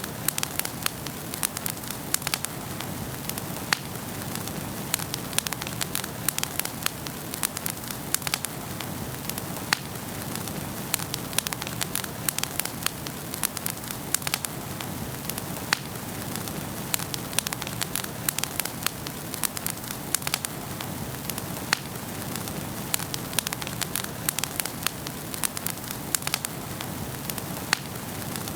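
Wood fire burning in a fireplace, crackling steadily with frequent sharp pops over a low rushing hiss of flames.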